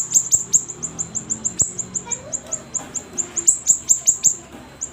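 A siri-siri songbird singing hard: a rapid string of short, very high chip notes, each slurring downward, about five a second.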